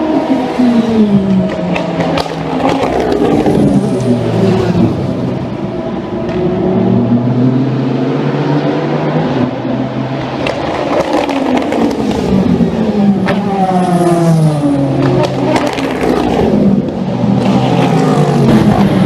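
Endurance race cars passing one after another at full racing speed. Their engine notes fall as each goes by and climb again as they accelerate away.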